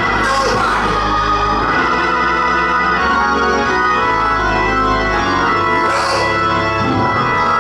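Organ music: sustained chords over a held low bass note that drops out about five seconds in.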